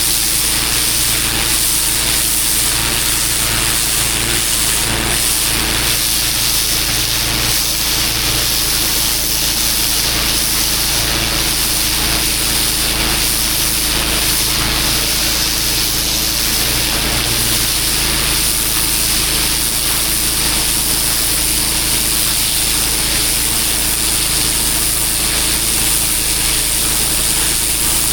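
Pressure washer running: its engine holds a steady pitch under the continuous hiss of a high-pressure water jet spraying onto block paving.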